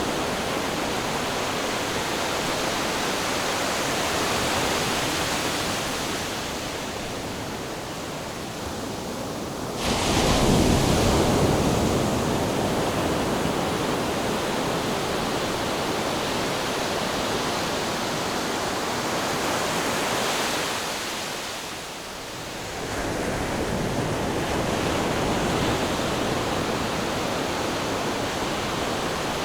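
Ocean waves washing on the shore in a steady rushing surf. A wave breaks suddenly about ten seconds in, and there is a short lull a little past twenty seconds before the surf builds again.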